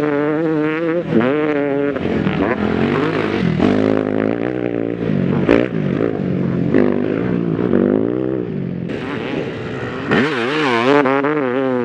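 Motocross bike engine running hard, its revs rising and falling over and over as the throttle is worked on and off.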